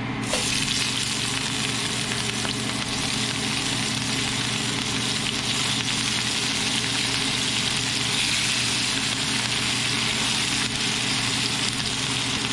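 Shredded cabbage sizzling in a hot frying pan of oil left from searing trout as handfuls are dropped in. The sizzle starts suddenly just after the start and then runs steadily over a low steady hum.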